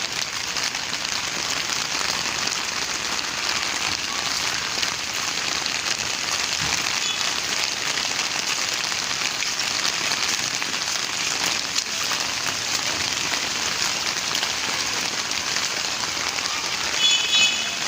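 Steady rain falling, an even dense hiss of raindrops striking surfaces.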